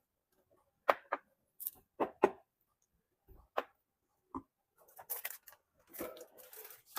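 Six or so sharp clicks and knocks, a pair about a second in and another pair about two seconds in, then a couple of seconds of rustling near the end.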